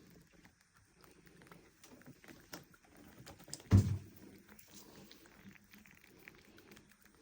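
A single dull, low thump about halfway through, among faint scattered clicks and ticks.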